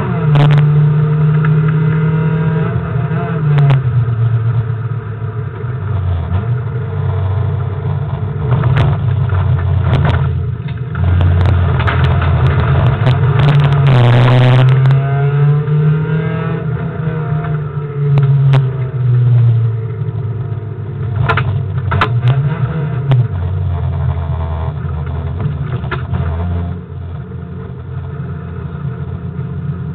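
Car engine heard from inside the cabin while driving hard, its pitch rising and falling repeatedly as it accelerates, lifts off and changes gear, with several sharp knocks and rattles.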